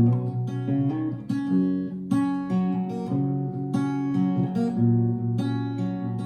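Acoustic guitar strumming chords: the instrumental intro of a song, before the vocals come in.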